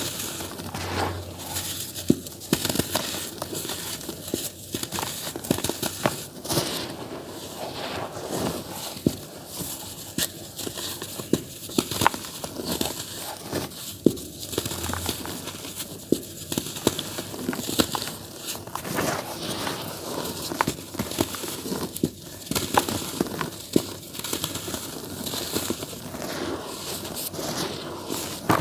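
Dry earthy dirt crumbling in a tub: a continuous gritty crunching and crackling dotted with frequent sharp snaps.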